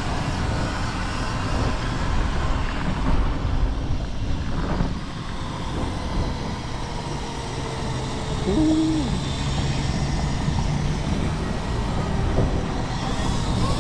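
Wind rushing over the microphone and road noise while riding an electric scooter at speed.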